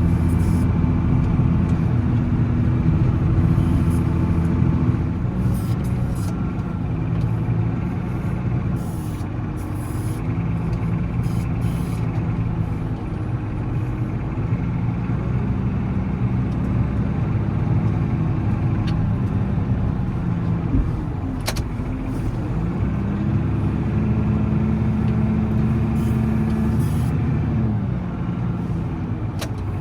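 Volvo L70C wheel loader's diesel engine running while plowing snow, its speed rising and falling every few seconds.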